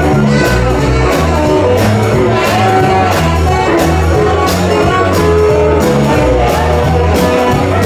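Live rock and roll band playing an instrumental passage with a steady beat, a stepping bass line and guitar.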